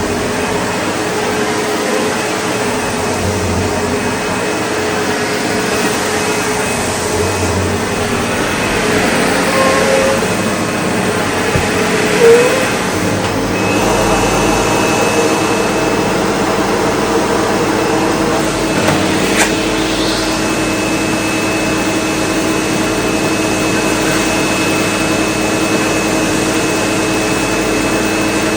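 SEBO Automatic X4 bagged upright vacuum cleaner running steadily, its motor tone shifting about halfway through as it picks up a heavy spread of debris. A brief louder burst comes just before the shift, and a sharp click a few seconds later.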